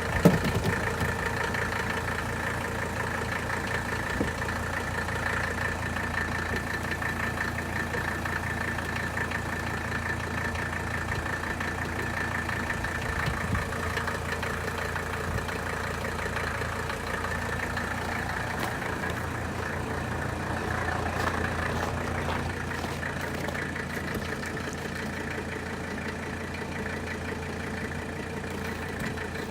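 Mercedes-Benz 300D's five-cylinder diesel engine idling steadily, with a sharp click just after the start.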